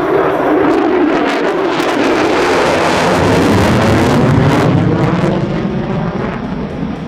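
F-35A Lightning II fighter jet with its single Pratt & Whitney F135 turbofan, a loud jet rumble flying past. It builds to a peak about four to five seconds in, then fades away.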